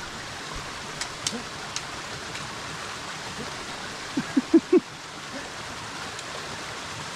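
Rushing stream running steadily, with a few faint clicks about a second in. A little past the middle, three or four short vocal sounds from a person stand out as the loudest thing.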